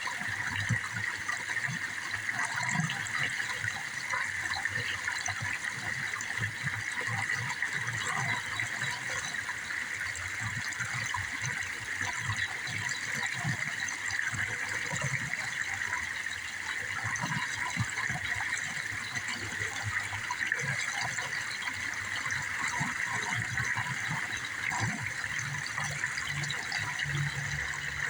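Steady noise of running water, unbroken throughout, strongest in a high band, with irregular low bumps underneath.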